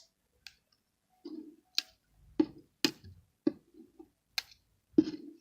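Hands rolling up a crushed-Oreo mixture: a scattering of short, irregular clicks and soft pats.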